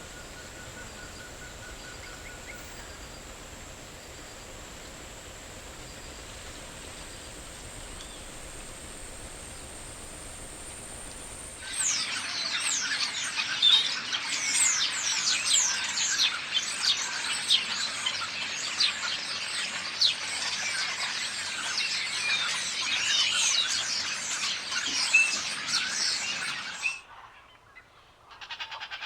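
Forest ambience with a steady high-pitched tone for about twelve seconds, then an abrupt change to a dense chorus of many birds chirping and whistling, which cuts off suddenly near the end.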